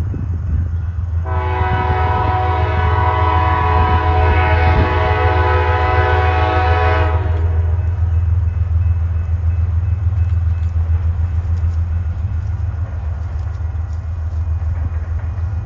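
Diesel locomotive sounding its air horn in one long blast of about six seconds, starting about a second in, over the steady low rumble of the locomotive's engine, which carries on after the horn stops.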